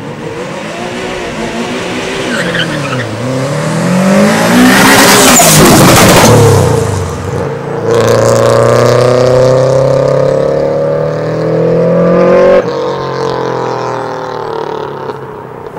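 Subaru Impreza STI Type R coupe's turbocharged EJ20 flat-four accelerating hard. The revs rise and fall as it pulls out, and it is loudest about five seconds in as it passes. A long climbing pull in one gear follows, cut off about twelve seconds in, after which the sound fades as the car drives away.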